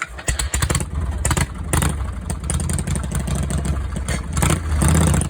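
Motorcycle engine running with a steady low note, with irregular bursts of noise over it.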